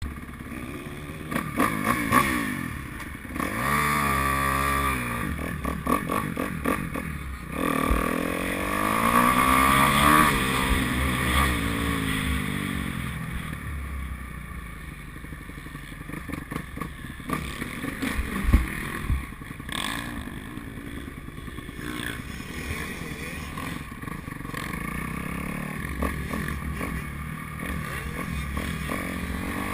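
Kawasaki 250F four-stroke single-cylinder motocross bike engine revving up and down as it is ridden, the pitch climbing and falling with each burst of throttle, over wind and rumble on the microphone. A few sharp knocks come about two-thirds of the way through.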